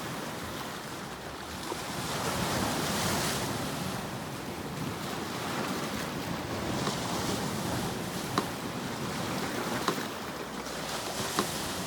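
Sea surf washing in, a steady hiss of water that swells and ebbs, with a metronome ticking slowly, about one click every second and a half, most clearly in the second half.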